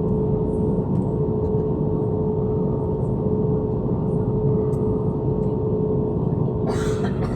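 Airliner cabin: steady engine and air-system hum with a constant tone while the aircraft taxis before take-off. A brief hiss near the end.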